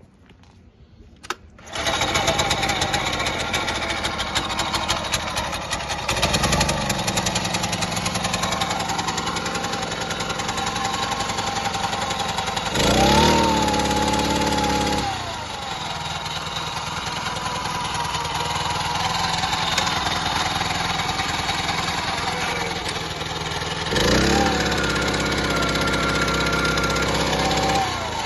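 Honda FF300 mini tiller's small four-stroke petrol engine starting about two seconds in and running, with the throttle opened a few times: a brief rev, a longer higher-pitched rev about halfway through, and a raised speed held near the end.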